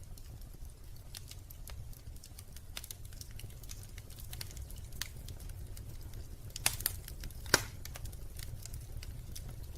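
Wood fire crackling in a fireplace: scattered small pops and snaps over a low, steady rumble, with two louder pops a little past the middle.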